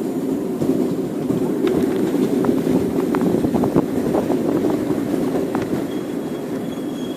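Miniature railway train running along its track, heard from aboard: a steady rumble of the wheels with scattered clicks, busiest through the middle, and a faint thin high whine near the end.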